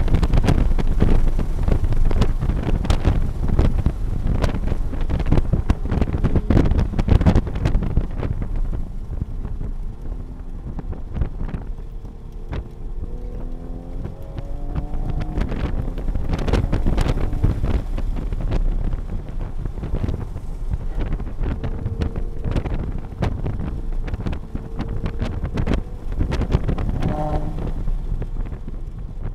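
Toyota A90 Supra running hard on track, heard from inside the cabin: engine under load mixed with heavy wind and road noise, with frequent short knocks. It eases off for a few seconds and then pulls again.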